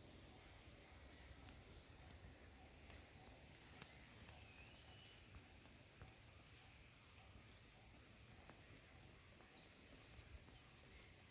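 Faint bird chirps: short high notes that slide downward, repeated about a dozen times at irregular intervals over an otherwise near-silent background.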